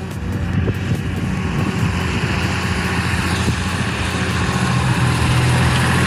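A heavy vehicle's engine running steadily, growing louder through the second half.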